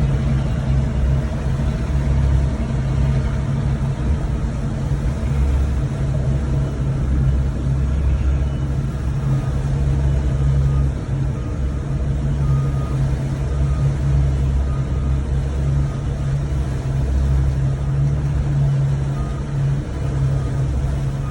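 Boat engine running steadily, a deep even rumble with no change in speed.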